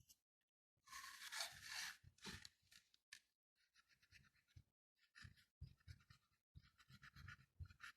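Faint rubbing of an eraser on paper in quick back-and-forth strokes, removing the pencil construction shapes from a drawing.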